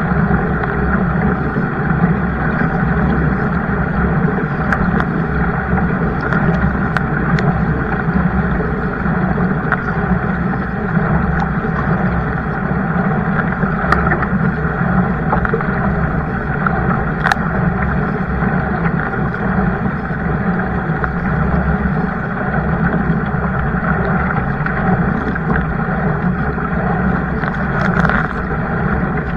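Steady rush of water and wind noise from a kayak out on the water, with a few scattered light knocks.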